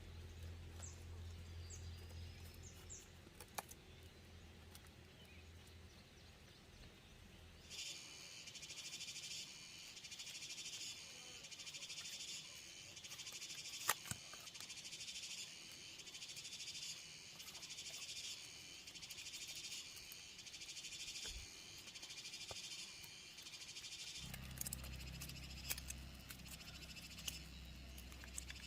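Insect chorus buzzing in even pulses about once a second, starting about eight seconds in and stopping a few seconds before the end. A low hum sits underneath at the start and near the end, with a few scattered clicks.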